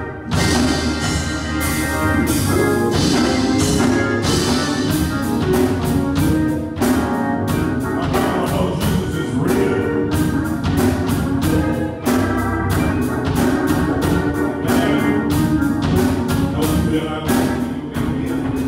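Church music led by an organ, with percussion strikes throughout.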